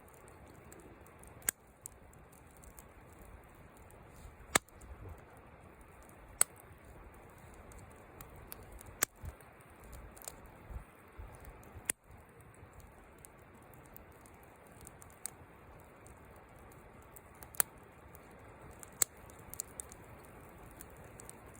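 Wood fire crackling, with sharp single pops every few seconds at irregular intervals over a low steady hiss.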